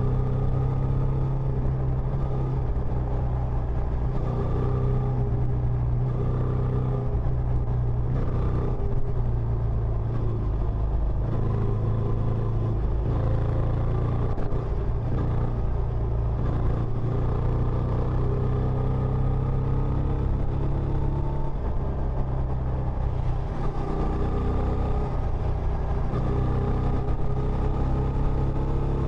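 Benelli Imperiale 400's single-cylinder engine running steadily through its stock exhaust, a continuous low note with only small shifts in level.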